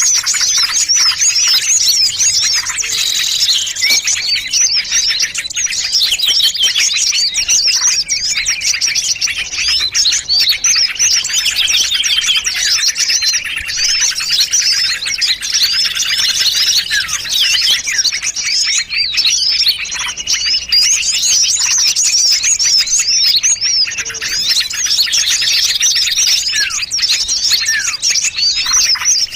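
Mixed small-bird lure call: many small songbirds chirping and trilling at once in a dense, continuous, high-pitched chatter, the kind of combined call played to draw small birds in.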